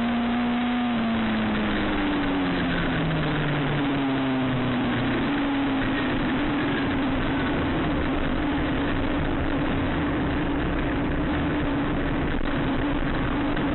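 Race car engines running on a paved oval track, a steady engine drone with several engine notes slowly dropping in pitch as the cars go by.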